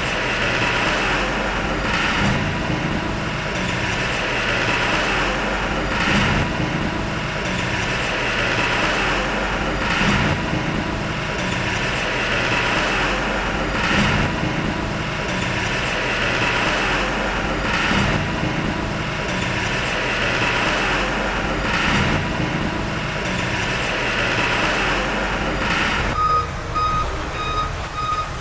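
Heavy diesel earthmoving machinery running under work, with a rhythmic surge about every two seconds. About two seconds before the end a reversing alarm starts beeping.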